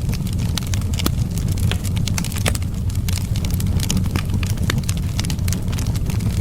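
Wood fire crackling, with many sharp irregular pops, over a steady low rumble of wind.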